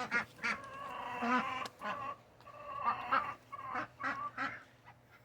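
Ducks quacking in a string of short calls, with one longer call about a second in; the calls grow sparser toward the end.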